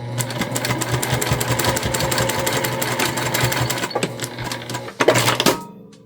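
Electric sewing machine stitching fast and steadily, needle strokes in a rapid even rhythm over a motor hum. It stops about five seconds in after a short louder burst.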